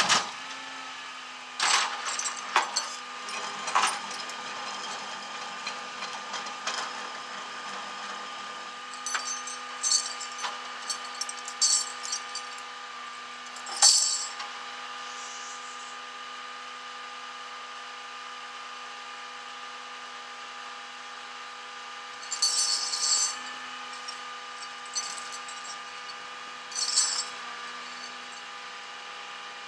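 A steady machine hum holding several fixed pitches, with scattered metallic clinks and rattles over it, like tools or small metal parts being handled, the loudest about 2, 4 and 14 seconds in and again around 23 and 27 seconds.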